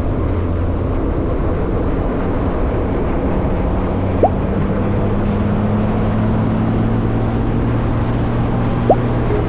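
A vehicle engine running steadily under way, a low hum with a rushing noise over it, its pitch creeping up slightly. Two short rising chirps cut in, about four seconds in and again near the end.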